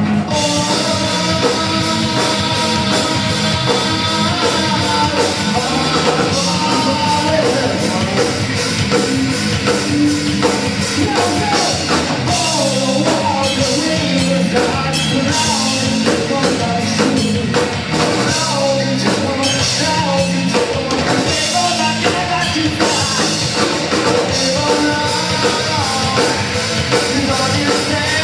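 Live rock band playing a song, with a steady drum beat under the instruments and singing.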